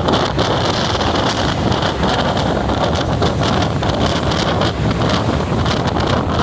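Passenger train running: a steady rumble with wind buffeting the microphone, broken by many short clicks and rattles.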